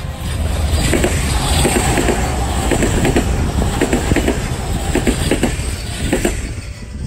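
E257 series 2500 electric multiple unit passing close at speed: a loud rush of wheel and running noise with repeated clacks of the wheels over the rail joints. It cuts off about six seconds in as the last car goes by.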